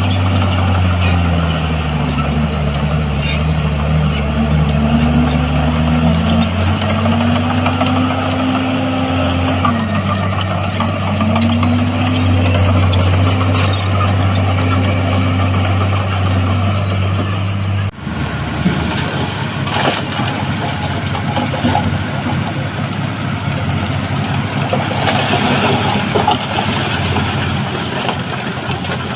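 Diesel engine of heavy earth-moving machinery running, its pitch rising and falling as it works under load. About two-thirds of the way through, the sound changes abruptly to a different engine running steadily.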